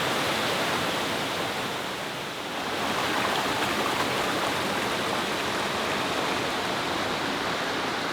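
Waterfall and river water rushing in a steady roar, dipping slightly about two seconds in.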